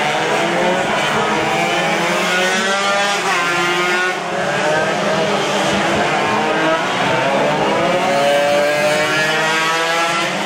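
Yamaha RX-King two-stroke single-cylinder race engines of two bikes revving hard, with several engine notes overlapping and their pitch sweeping up and down through the gear changes.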